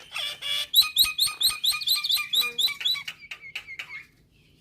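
Nias hill myna calling: a fast run of repeated whistled notes, each sliding down in pitch, about five a second, fading out and stopping about four seconds in.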